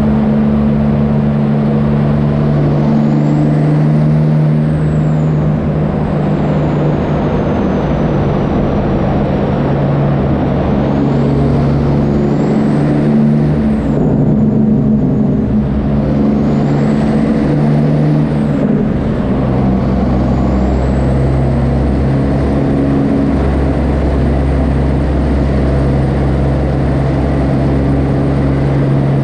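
Kenworth W900 truck's diesel engine running loud through straight pipes, its note shifting pitch several times. A high whistle rises and falls over the engine.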